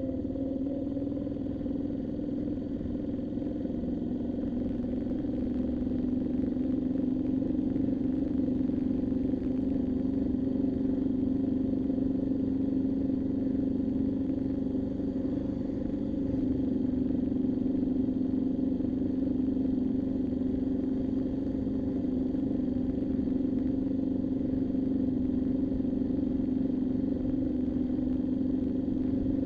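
Moto Guzzi V7's air-cooled V-twin engine running under way at a steady cruising speed, its pitch holding almost constant with only slight rises in level.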